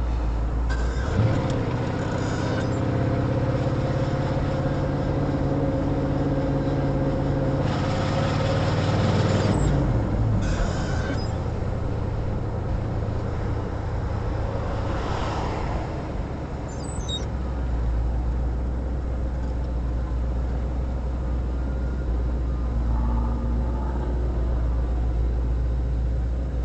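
Car engine and road noise heard from inside a moving car. An engine drone runs for the first ten seconds or so, then falls in pitch and stops as the car slows, leaving a steady low hum.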